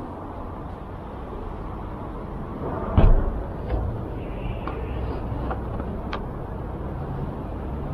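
Steady street-traffic rumble heard through an open window. There is one loud thump about three seconds in and a few light clicks after it.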